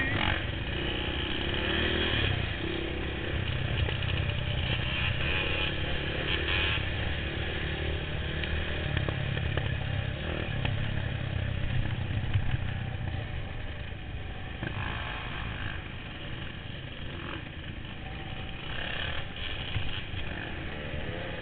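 Enduro motorcycle engine running continuously, its level rising and falling a little and easing somewhat past the middle.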